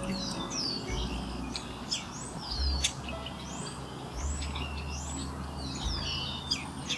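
Small birds chirping steadily, a busy run of short, high, down-slurred chirps with some sharp clicks among them. A low rumble swells and fades underneath.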